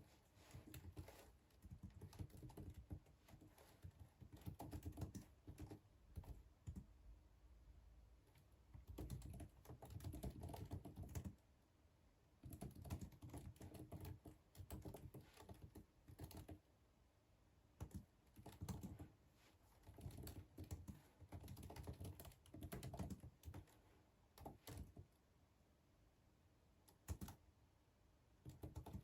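Typing on a computer keyboard: bursts of quick key clicks lasting a second or two each, broken by short pauses, with a longer gap about two-thirds of the way through.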